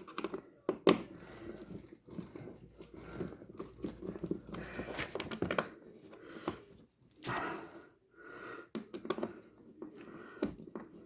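Washing machine parts being handled and fitted during reassembly: irregular clicks and knocks of metal and plastic, the loudest about a second in, with stretches of scraping and rustling.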